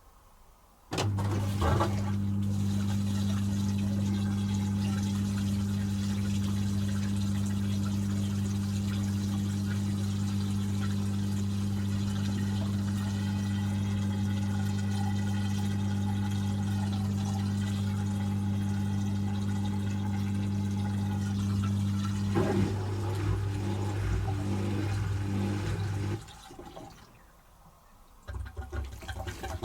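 Asko Quattro washing machine's pump moving rinse water, a steady low electrical hum with rushing water. About 22 seconds in, the sound turns uneven and gurgly, as the pump starts to suck air with the drum nearly emptied, and it stops a few seconds later.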